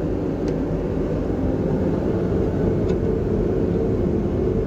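A steady low mechanical rumble, with two faint light clicks about half a second and three seconds in.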